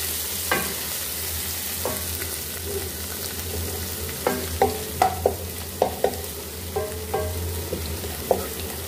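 Crushed garlic and ginger sizzling in hot oil in a metal pan as they fry. A wooden spoon stirs them, knocking against the pan many times, most in a quick run in the middle.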